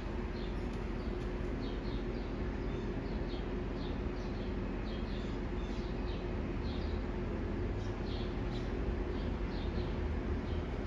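Small birds chirping, short high chirps every half second or so, over a steady hum and background noise.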